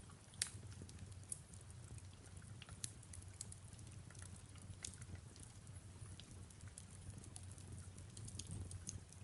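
Faint fireplace crackling: scattered sharp pops and ticks, the strongest about half a second in, over a soft rain hiss and a low steady hum.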